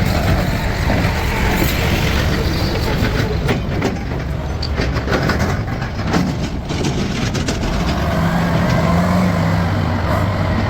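Heavy machinery's diesel engine running steadily, with rattling and a run of clanking knocks in the middle.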